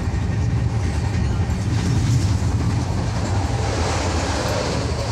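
Passenger train coach running at speed, a steady low rumble heard from inside the coach. From about two seconds in, a rushing noise builds and grows loudest near the end as another train passes close alongside.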